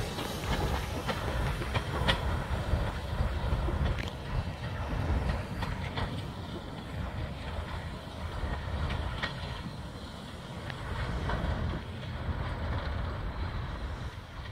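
Freight train cars rolling past with a steady low rumble, the wheels clicking now and then over rail joints.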